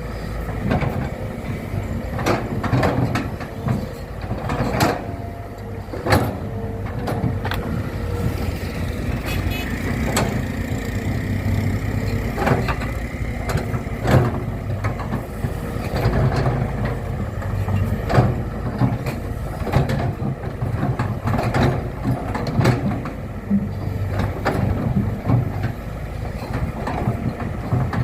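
Construction machinery with an engine running steadily as a low rumble, and frequent sharp knocks and clanks throughout.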